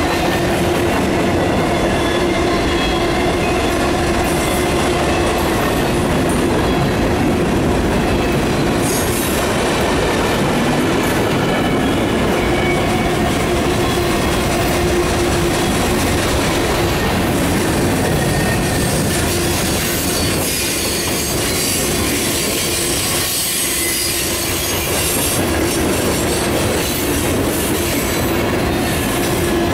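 Loaded and empty freight cars of a mixed freight train rolling steadily past close by, steel wheels on rail, with a steady squeal from the wheels running through the noise.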